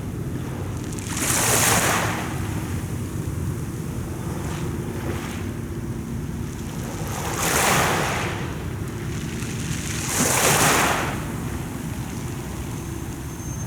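Mediterranean sea waves washing in, three surges of rushing surf that swell and fade over a steady low rumble, with wind buffeting the microphone.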